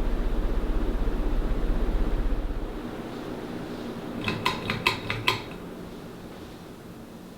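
Riccar America ceiling fan motor humming steadily; the hum drops away about three seconds in, leaving a quieter running sound. A second or so later come five light metallic clinks in quick succession, each with a short ring.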